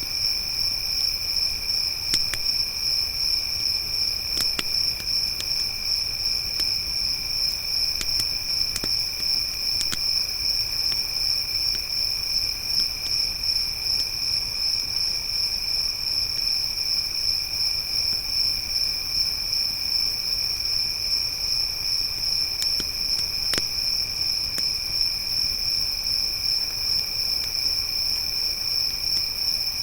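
Crickets chirping in a continuous high trill, with a second, lower steady insect trill underneath. Occasional sharp pops and crackles from a wood campfire come through now and then.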